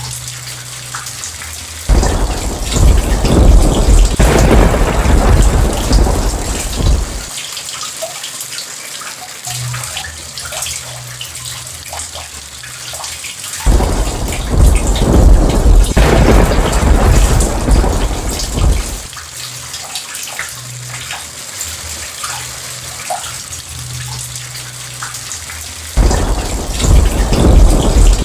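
Steady heavy rain with thunder rumbling three times: each peal starts suddenly, about 2, 14 and 26 seconds in, and rolls on for five or six seconds before dying back to the rain.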